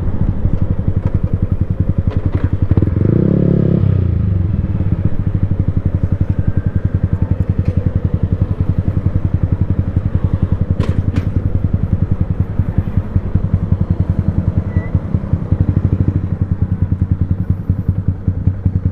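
Yamaha Sniper 155R's single-cylinder engine running through an Akrapovic full-system exhaust. It revs briefly about two and a half seconds in, then settles to an idle with a steady pulsing beat.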